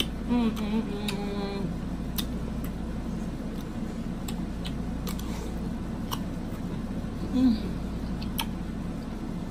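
Close-up eating sounds of a person biting and chewing a raw cucumber: scattered sharp crisp clicks of crunching and mouth noises, with a brief hummed 'mmm' near the start and a short one again near the end, over a steady low room hum.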